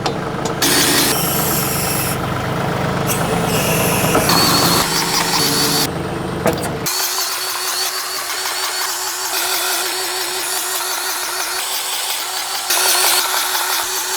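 Cordless grease gun motor whining steadily while greasing the backhoe's fittings. For about the first seven seconds a tractor engine runs beneath it, then it cuts out.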